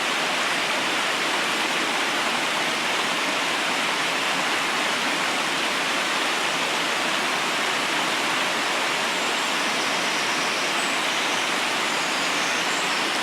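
River water rushing steadily over rocks, a continuous even roar with no break or change.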